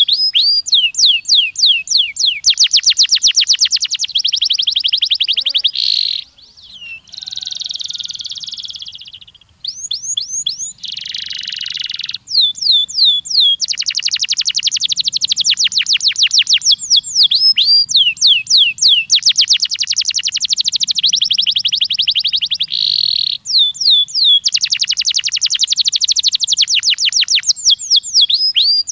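Canary singing a long, loud song of fast repeated trills and quick chirping notes. About a third of the way in come a few buzzier rolls.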